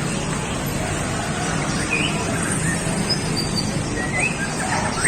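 Bird market ambience: a steady background rumble, with a few short chirps and whistles from caged songbirds about two and four seconds in.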